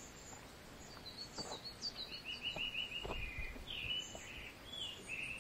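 Wild birds calling in the forest: scattered short high chirps, with a quick run of repeated chirps about two seconds in, over faint outdoor background noise and a few soft knocks.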